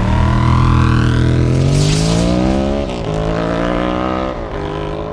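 KTM Duke motorcycle engine accelerating hard through the gears: the pitch climbs for about three seconds, drops at an upshift, climbs again and drops at a second upshift.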